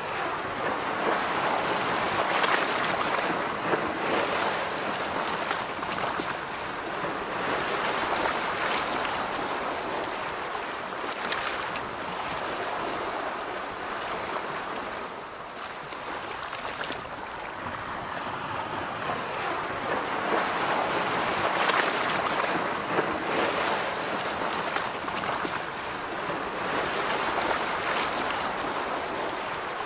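Ocean surf washing on a beach with some wind, rising and falling in slow swells every few seconds.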